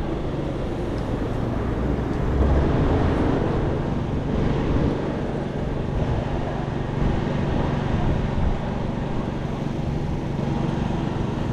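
City street traffic noise with a steady low engine hum from a nearby vehicle.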